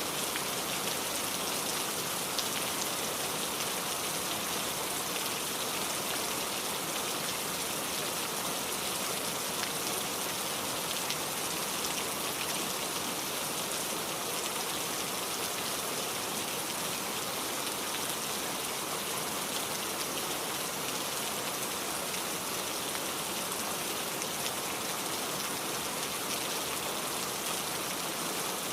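Steady rain falling on a surface, an even hiss with fine drop patter throughout.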